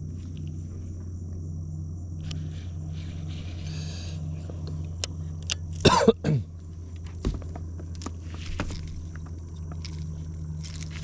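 Steady high chirring of night insects over a constant low hum. About six seconds in comes a short cough, and a few scattered clicks sound throughout.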